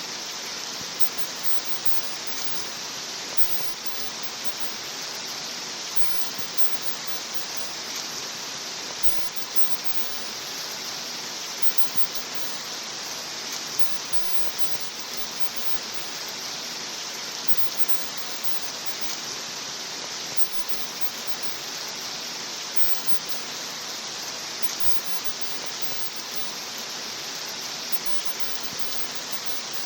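Steady rain sound: an even, unbroken hiss of falling rain.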